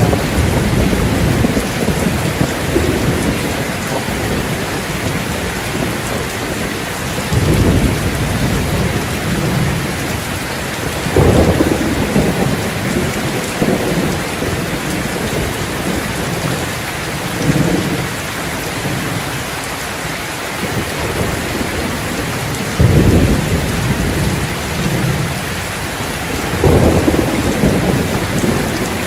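Steady rain falling, with low thunder rumbles that swell up every few seconds.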